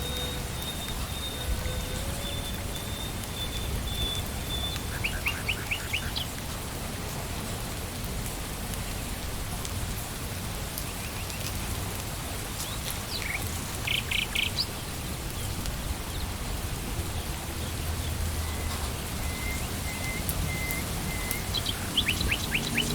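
Steady rain falling on leaves and ground in a forest. Birds call over it, with short rapid series of chirps about five seconds in, around fourteen seconds, and again near the end.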